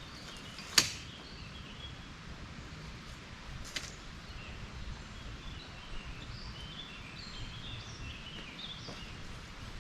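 Lakeside outdoor ambience: a steady low background hush with small birds chirping in the latter half, broken by a sharp click about a second in and a fainter one near four seconds.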